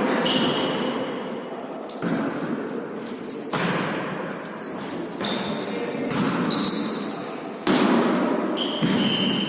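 A volleyball being struck and bouncing on a hard indoor court during a rally, a series of sharp smacks about every second that echo in the hall, with short high sneaker squeaks from the players between them.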